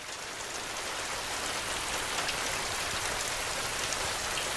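Steady rain, a dense patter of drops on a surface, swelling up over the first second and then holding steady.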